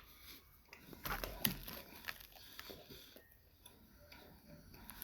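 Faint chewing of a soft croissant roll, with a few scattered soft clicks and rustles from handling its plastic wrapper.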